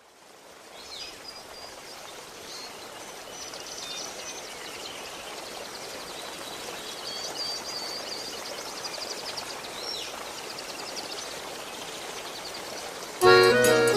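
Steady rush of running water fading in, with songbirds chirping, trilling and giving short falling calls over it. Music starts abruptly near the end.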